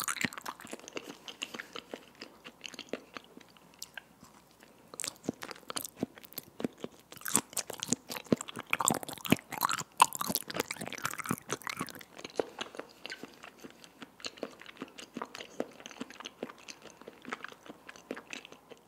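Close-miked chewing of raw salmon sashimi: soft, wet mouth sounds and irregular smacks and clicks, sparser a couple of seconds in, then busier again.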